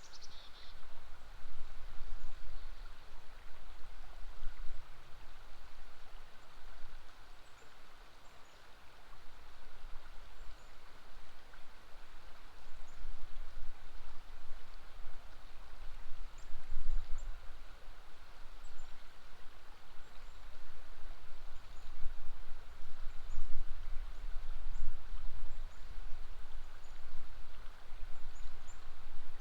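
River water flowing steadily under a low rumble that swells and fades, with a short falling bird call at the start and faint, scattered bird chirps.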